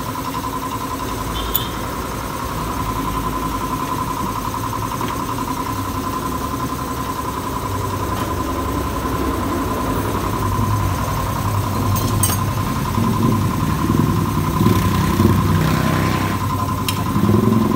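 A motorcycle engine idling steadily, with a constant whine running under it; the low engine sound grows fuller and more uneven from about halfway in.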